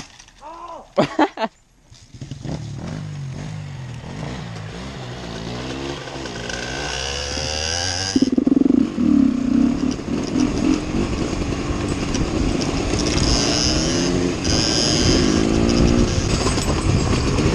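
Dirt bike engine pulling away and accelerating along the track, its pitch rising steadily, then a sudden step up in loudness about eight seconds in with the revs rising and falling after. Two short loud bursts come about a second in.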